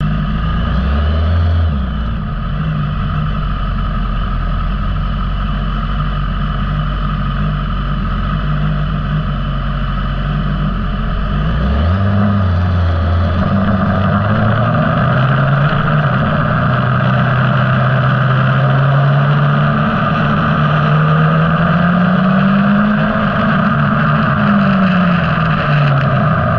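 Sport motorcycle engine heard from an onboard camera, running at low revs for about twelve seconds and then pulling away, its revs climbing and falling through the gears. A rushing noise builds as speed picks up.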